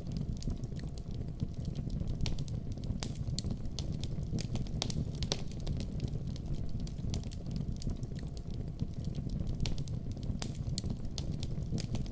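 Wood fire burning in a fireplace, with a steady low rumble and frequent sharp crackles and pops scattered irregularly throughout.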